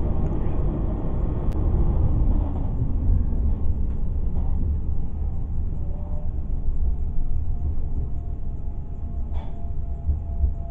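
Steady low rumble of an electric commuter train running along the line, heard from inside the carriage. A faint steady whine comes in about halfway through and grows toward the end, with an odd single click.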